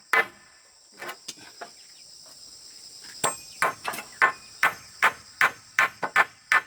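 Hammer blows striking repeatedly: a few at the start, a short pause, then a steady run of about two to three blows a second from about three seconds in. Crickets chirr steadily behind.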